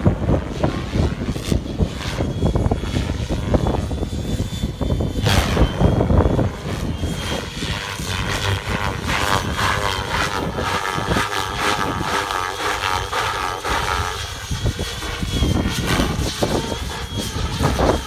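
Electric radio-controlled helicopter (Gaui X7 with a three-blade rotor head) in flight. Its rotor and motor whine is heard under heavy wind buffeting on the microphone, with a faint high tone that wavers through the flight.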